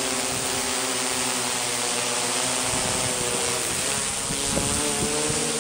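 Quadcopter drone propellers whirring steadily. Their pitch dips and rises again about four seconds in, with hiss behind.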